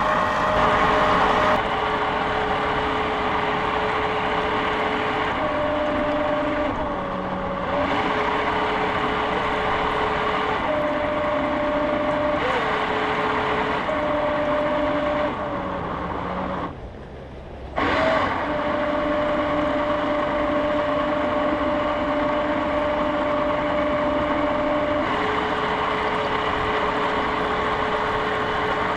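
Jet boat motor running with a steady whine that steps back and forth between two pitches several times. It eases off briefly a little past halfway, then picks up again.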